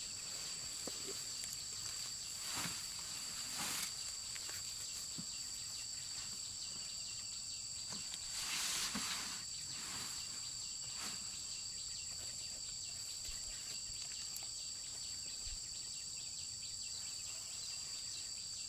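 Insects trilling steadily at two high pitches, with a few short rustling swishes, the longest about eight to nine seconds in.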